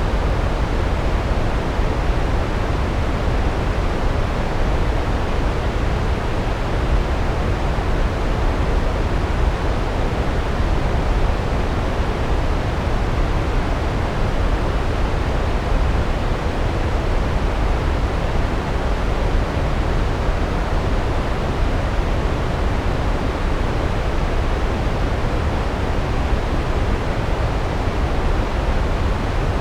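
Large waterfall: a steady, unbroken rush of falling water, heaviest in the low end, with no distinct splashes standing out.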